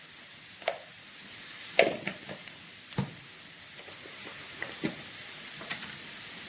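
Onion and ginger-garlic paste sizzling steadily in hot oil in a pot, with a utensil knocking and scraping against the pot several times as ground spices are added.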